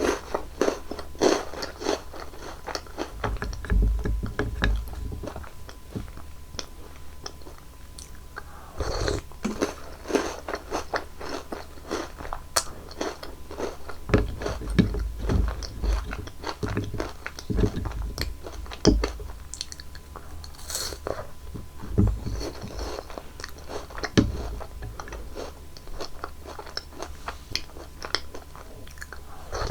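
Close-miked ASMR eating sounds: chocolate sweets bitten and chewed with repeated crisp crunches and crackles, in clusters with short pauses between.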